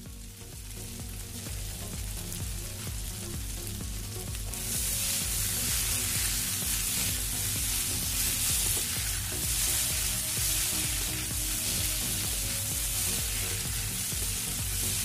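Potatoes and broad beans sizzling in a non-stick frying pan as they are stirred with a wooden spatula; the sizzle grows much louder about four to five seconds in, over background music with a steady low beat.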